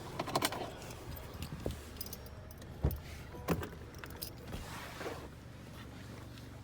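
Light metallic clicks and jingling rattles: a quick cluster at the start, then a few single clicks spaced a second or so apart. These are small fittings being handled in a car's interior, over a steady low hum.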